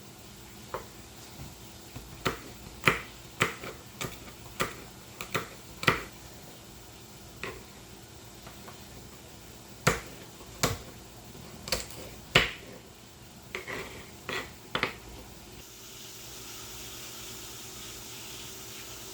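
Irregular sharp knocks and clicks of kitchen items being handled and set down. A steady hiss starts about three-quarters of the way in.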